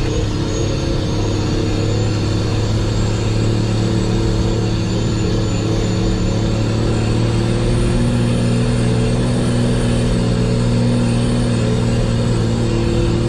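Nissan TD42 4.2-litre straight-six diesel engine running steadily under load as the four-wheel drive climbs a steep sand hill, with the revs rising a little about eight seconds in.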